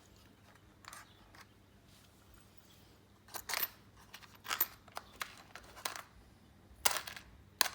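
Light, irregular clicks and clinks of small metal washers being picked through by hand, about eight separate ticks.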